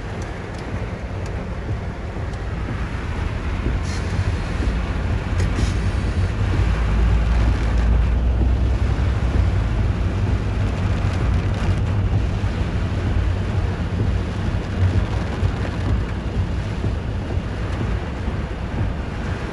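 Typhoon wind and heavy rain, with gusts buffeting the microphone in a low rumble that builds a few seconds in and stays strong through the middle.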